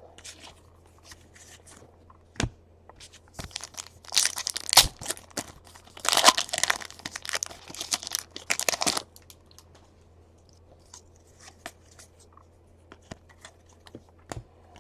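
Trading card pack wrappers being torn open and crinkled, in two spells of tearing and crackling about four and six seconds in, with scattered light clicks before and after.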